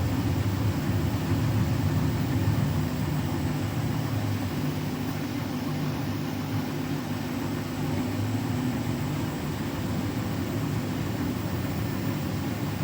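Beko WTK104121W washing machine on its final spin, set to 1400 rpm: a steady hum of the drum and motor turning fast, with a low drone that eases slightly about three seconds in.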